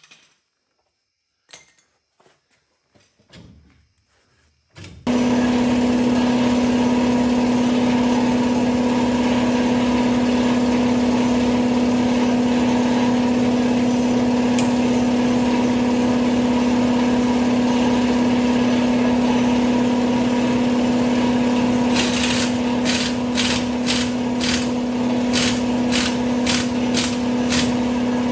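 A few faint clicks, then a motor-driven machine starts up and runs loud and steady at one pitch. From about 22 seconds a rhythmic pulsing about twice a second rides over it.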